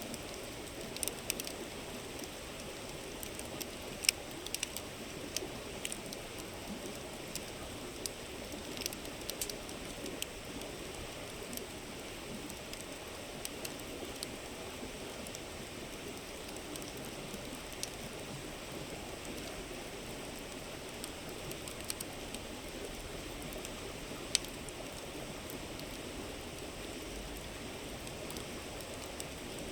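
A river flowing steadily, with a wood campfire crackling over it in sharp pops and snaps. The pops come thick and fast for the first ten seconds or so and then thin out, with single louder pops about four seconds in and again near the end.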